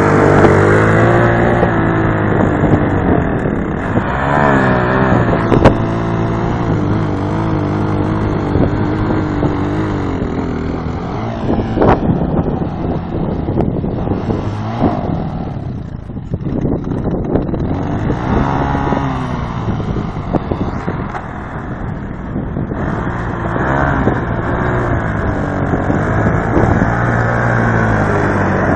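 ATV engine running under way, its pitch rising and falling again and again as the throttle opens and closes. There are a couple of sharp knocks partway through.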